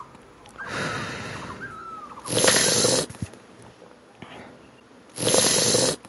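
Snoring sound effect: two loud rasping snores about three seconds apart, with a softer whistling breath between them.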